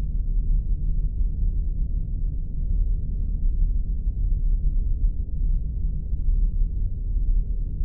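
Spaceship sound effect: a steady, deep rumbling drone with almost nothing in the upper range.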